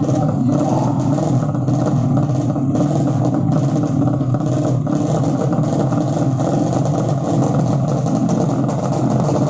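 Racing motorcycle engines running loudly and steadily, a dense engine noise.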